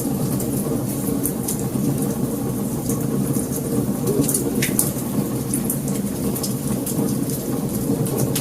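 Wood fire crackling: a steady low rushing from the flames with scattered sharp pops and snaps, several of them close together near the middle.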